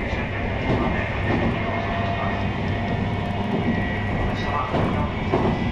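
JR East 719 series electric train car running at speed, heard from inside: a steady rumble of wheels on rail with steady whining tones. This car is known for an unusual running noise.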